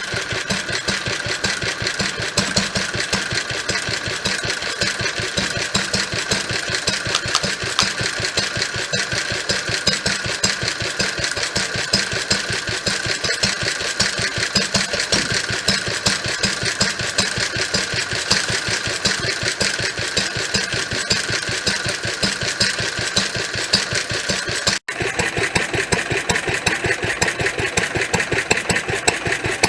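Lister D type single-cylinder stationary engine running steadily with an even firing beat. The sound breaks off for an instant near the end and returns with a slightly different tone.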